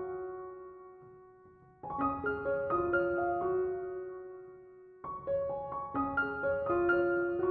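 Slow, gentle piano music: short phrases of single notes, each ending on a held note that slowly fades. A new phrase begins about two seconds in and again about five seconds in.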